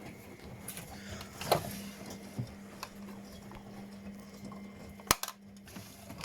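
Washing machine running with a steady low motor hum and a few light clicks and knocks; a sharp click about five seconds in, then the hum stops.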